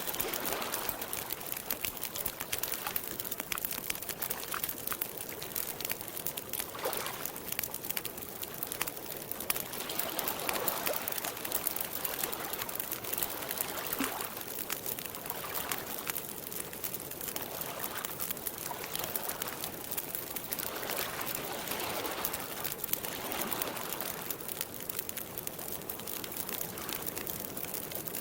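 Campfire crackling with a dense run of small pops, over soft swells of water lapping every couple of seconds.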